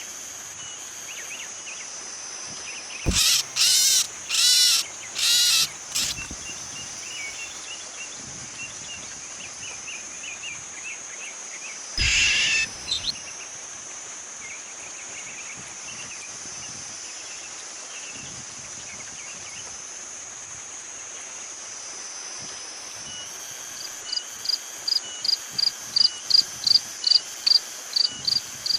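Steady high-pitched insect drone of crickets or cicadas, broken by four loud calls about three seconds in and another near the middle. Near the end a run of regular chirps starts, about two a second and growing louder.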